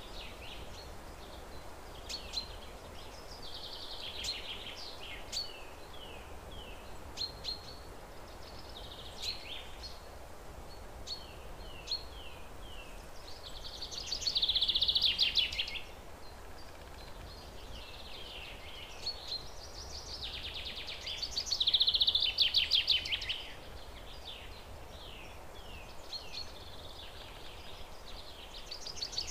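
Songbirds singing: a run of chirps and short falling notes, with a louder rapid trill twice, around the middle and again about two-thirds through.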